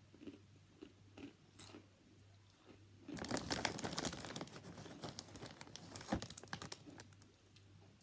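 Crunchy food being bitten and chewed close to the microphone: a few faint clicks, then loud, dense crunching from about three seconds in, lasting about four seconds.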